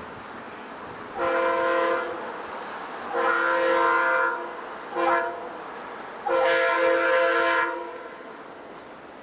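Locomotive air horn sounding the grade-crossing signal: two long blasts, a short one and a final long blast, each a chord of several tones.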